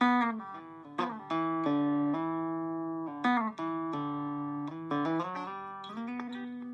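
Electric Vega banjo (circa 1936–37) picked slowly, single notes and short chords ringing on for about a second each, with several notes sliding or hammered into pitch.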